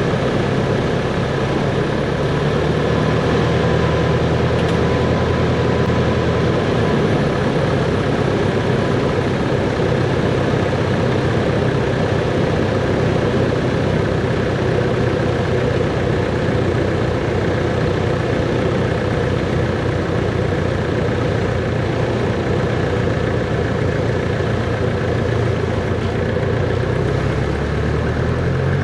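Cessna 140's piston engine running steadily at low power, an even, unchanging drone.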